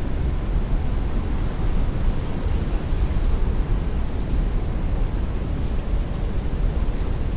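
Heavy rain beating on a window with strong wind: a steady, dense rush, heaviest in a low rumble.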